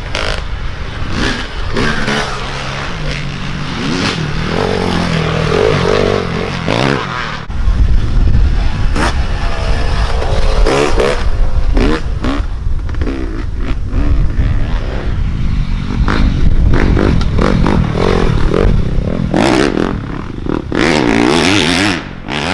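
Dirt bike engines revving and shifting pitch as racers ride past on an enduro course, the sound growing louder and deeper about a third of the way in.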